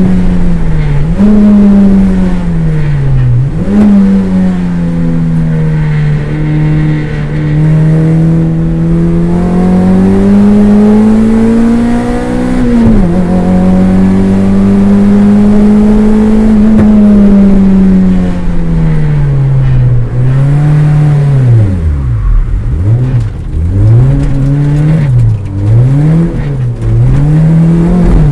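Toyota MR2 race car's engine heard from inside the cabin, pulling up through the revs and dropping sharply at gear changes. Near the end the revs dip and rise several times in quick succession, as the driver lifts, brakes and changes down.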